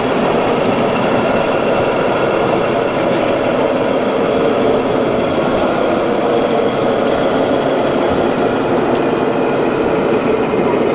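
1/14-scale RC construction machines running: a steady mechanical whirr of electric motors and gearing, with several thin high whining tones over it.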